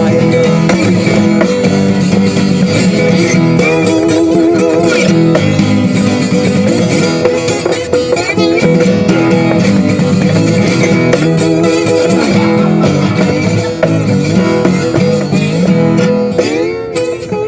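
Guitar music played live, steady throughout, with a few notes bending up in pitch near the end.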